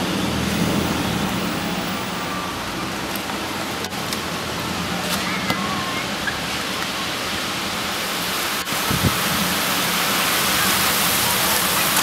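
Heavy rain pouring down on a city street: a steady rushing hiss that grows a little louder in the last few seconds.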